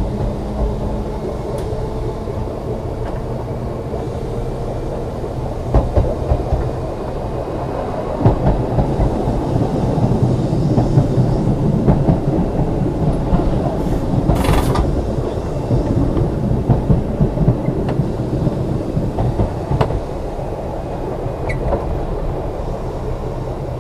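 Ex-Liverpool Corporation tram 869 running along the track under power, a steady rumble of motors and wheels with occasional knocks from the rails. A short hiss about halfway through.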